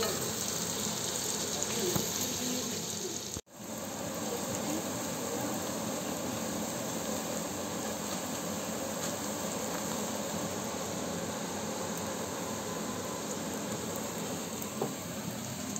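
Porcini mushrooms and onion frying in butter in a cast-iron pan: a steady sizzle, broken by a moment of silence about three and a half seconds in.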